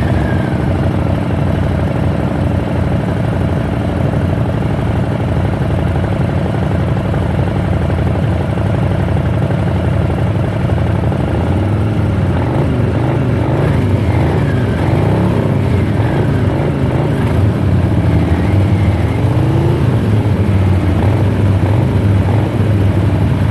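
A Harley-Davidson Milwaukee-Eight 114 V-twin idling steadily through Cobra Speedster 909 baffled exhaust, then blipped repeatedly, its pitch rising and falling, from about halfway through. It is loud.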